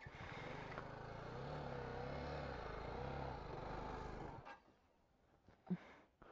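Motorcycle engine running at raised revs on a rough off-road climb, its pitch wavering gently up and down as the bike struggles to pull. It cuts off suddenly about four and a half seconds in.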